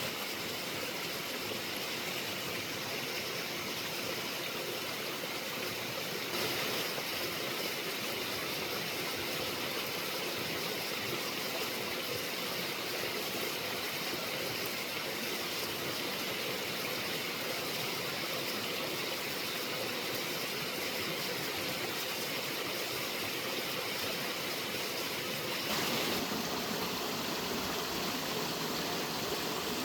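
Steady rushing of running water, with no rhythm or distinct events; its sound shifts abruptly about six seconds in and again near the end.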